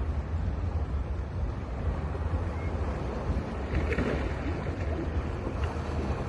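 Ocean surf washing on a beach, a steady noisy wash with wind rumbling on the microphone. A brighter surge of surf comes about four seconds in.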